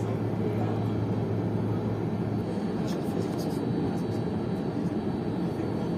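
Boeing 747-400 taxiing, heard inside the cabin: a steady engine hum with an even wash of noise, and a few faint ticks about halfway through.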